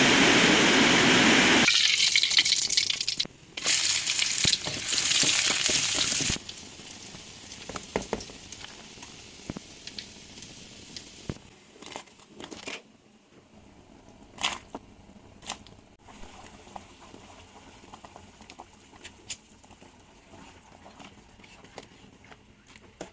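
Heavy tropical rain pouring down as a steady, loud hiss, which cuts off suddenly about six seconds in. After that, only faint rain and scattered drips and ticks remain.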